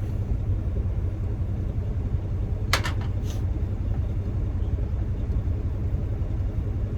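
Steady low rumble of the truck's idling engine heard inside the cab, with a single sharp click about three seconds in.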